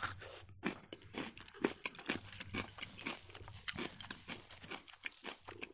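A person chewing a mouthful of Ossetian cheese pie, with many quick, irregular wet mouth clicks and smacks.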